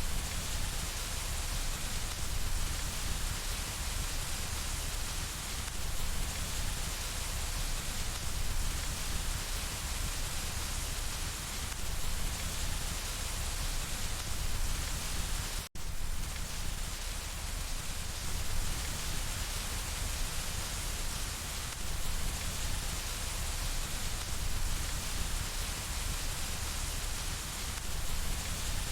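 Steady rain falling against window glass: a continuous, even hiss, broken once by a momentary gap a little past halfway.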